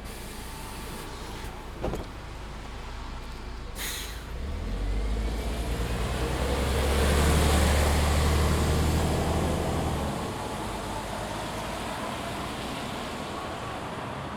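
MAN Lion's City 19C EfficientHybrid articulated bus pulling away: a click and a short air hiss, then the diesel engine with its Voith automatic gearbox builds up a heavy low drone under acceleration. About ten seconds in it eases off, leaving steady running and road noise.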